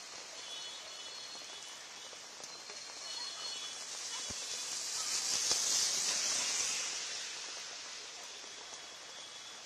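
Rain falling steadily, with a hiss that swells to a peak a little past halfway and then fades again.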